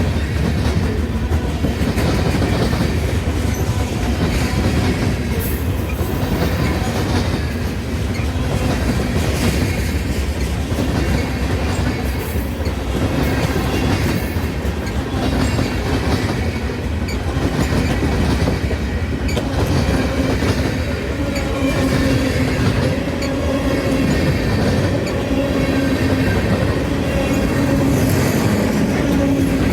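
Train rolling past, its wheels clicking and clattering over the rail joints in a steady, continuous run. About halfway through, a steady low tone comes in beneath the clatter.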